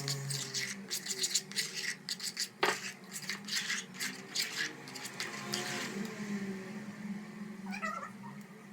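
A domestic cat meowing several times, with bending, wavering calls. During the first few seconds there are rapid clicks and scrapes of a utensil working in a bowl.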